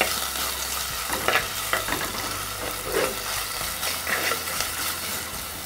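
Onions, green chillies and curry leaves sizzling in hot coconut oil in a clay pot. A spoon stirs and scrapes against the pot every second or so, at an uneven pace.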